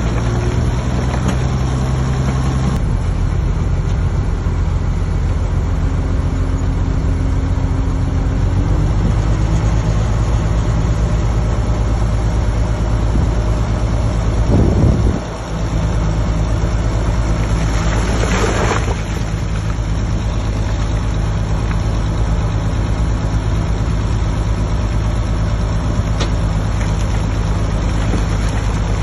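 Heavy earthmoving machine's diesel engine running steadily. There is a brief drop in level about fifteen seconds in and a short burst of hiss a few seconds later.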